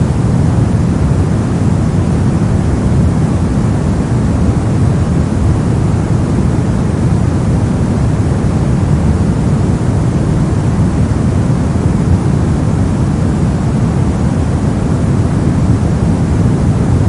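Continuous brown noise: a steady, deep rumbling hiss with most of its energy in the low end and little treble, unchanging throughout.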